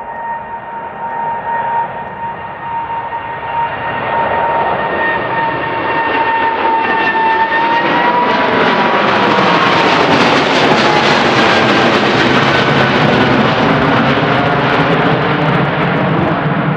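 Twin GE90 turbofan engines of a Boeing 777-200ER passing close by. A high fan whine drops slightly in pitch, then a loud jet roar builds, peaks in the second half, and starts to ease near the end.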